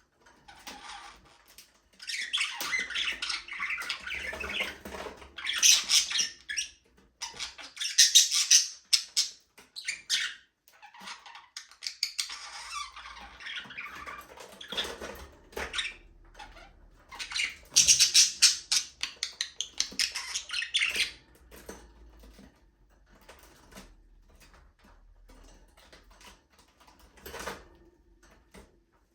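Budgerigars chattering and squawking in busy bursts, fading to fainter chatter for the last several seconds.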